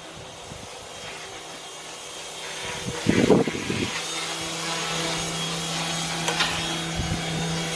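Pressure washer running, its water jet hissing against the ground. A steady motor hum sets in about four seconds in, and there is a short louder noise a little before that.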